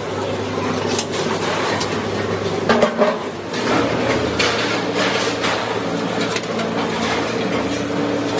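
Workshop machinery humming steadily, with scattered metallic knocks and clanks; the loudest clatter comes about three seconds in.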